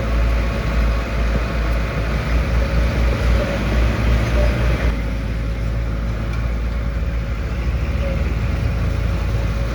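Diesel engine of heavy road-building machinery running steadily with a deep rumble; the higher part of the sound drops away about five seconds in.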